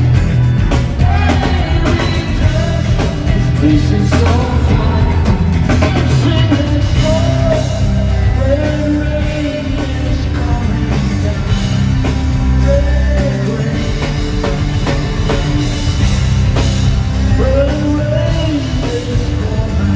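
Live rock band playing with a male lead vocal singing over drums and a heavy bass line.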